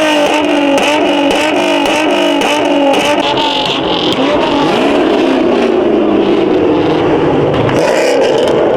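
Muscle car engine revving hard and loud, its pitch bouncing up and down in quick repeated sweeps, then settling into a steadier high-rev run for the second half.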